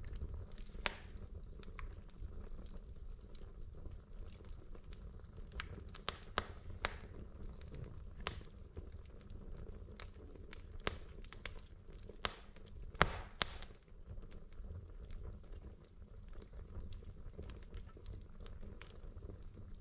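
Wood logs burning in a fireplace: a steady low rumble of flames with scattered sharp crackles and pops, a cluster of the loudest pops about two-thirds of the way through.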